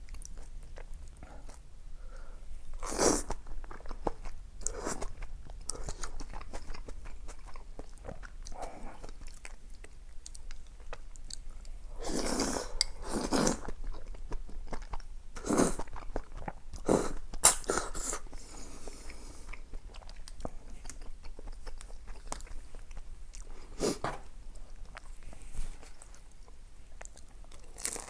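A person eating close to the microphone: chewing, with crunchy bites at irregular intervals, the loudest clusters about 3, 12 to 17 and 24 seconds in.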